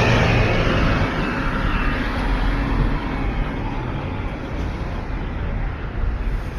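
Road traffic: a passing vehicle fades away over the first few seconds, leaving steady traffic noise.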